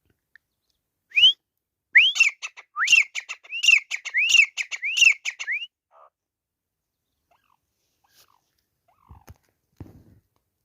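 Grey francolin calling: a short rising whistle, then a run of about six loud, high, rising-and-falling whistled notes run together over three and a half seconds. A few soft low thumps come near the end.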